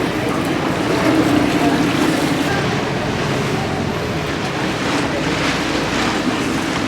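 Steady wash of water and wind noise on the microphone aboard a tour boat, with a low steady hum underneath.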